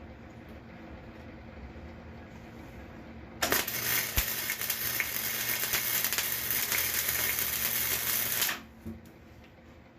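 120-volt wire-feed welder laying a bead on steel: a steady arc crackle with a low hum, starting about three and a half seconds in and cutting off about five seconds later.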